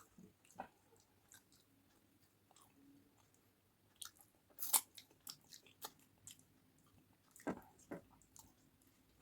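A person chewing and biting food close to the microphone: scattered short crunchy, clicky mouth sounds with quiet gaps, the loudest cluster about halfway through.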